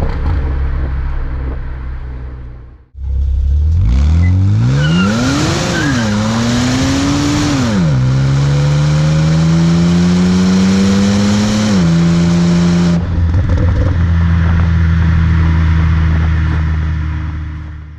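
BMW Z4 Coupé 3.0si straight-six through a Reuter Motorsport S aftermarket exhaust, accelerating through the gears of its automatic gearbox. The engine pitch climbs and drops sharply at three upshifts, then holds steady at a cruise before fading out near the end. A steadier engine note before it fades and cuts off about three seconds in.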